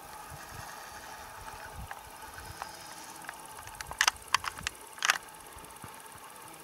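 Quiet outdoor background with a quick run of sharp clicks or snaps about four seconds in, three or four close together, and one more a second later.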